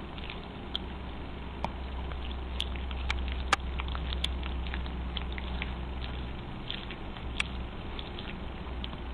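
Pekingese dog snoring in its sleep: a steady low rumble with scattered crackling clicks.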